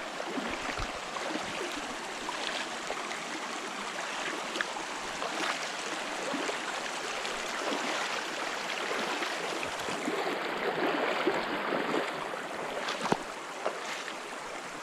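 Mountain creek water rushing steadily over a rocky shallow streambed, with scattered short splashes as a hiker wades across.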